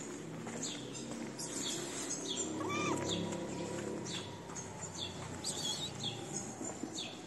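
Small birds chirping over and over in short, high chirps.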